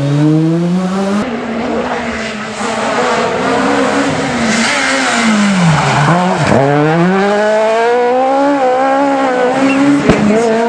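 S1600 rally car's high-revving 1.6-litre four-cylinder engine driven flat out, its note climbing through the revs. About a second in it cuts to another passage. Around the middle the pitch drops sharply twice as the driver lifts and downshifts, then it climbs hard again.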